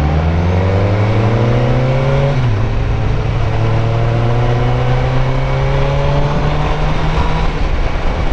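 Sport motorcycle engine accelerating. It revs up, drops in pitch at an upshift about two and a half seconds in, then pulls up steadily again, with wind and road noise underneath.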